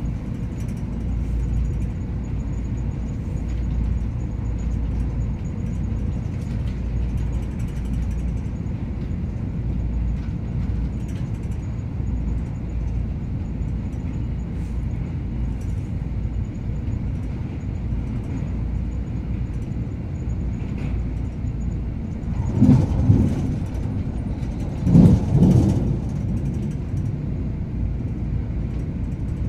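Steady low rumble of an MTR Airport Express CAF-built train running at speed, heard from inside the carriage. Near the end there are two brief louder surges.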